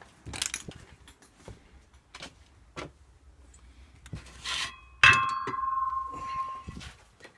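A few scattered clicks and knocks, then about five seconds in a sharp metallic clang that rings on with a clear tone for over a second before fading.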